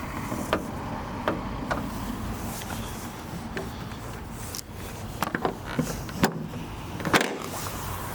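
Sharp clicks and knocks from a car being handled, scattered irregularly with a few in quick succession, over a steady low hum.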